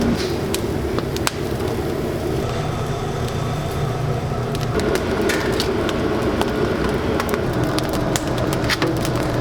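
Steady mechanical hum and noise with scattered sharp clicks and knocks, typical of kitchen work around cooking equipment.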